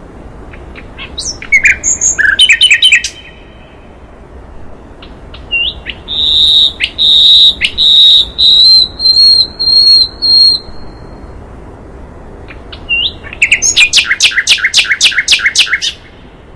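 Songbird singing in three loud phrases: a quick jumble of sharp notes, then a long run of whistled notes held high and steady, then a fast even series of about ten clipped notes near the end.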